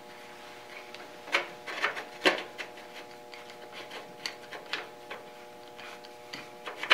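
Irregular small metallic clicks and taps of hand tools tightening small screws on a sheet-metal dust cover, loudest around two seconds in, with a quick cluster at the end. A steady faint hum runs underneath.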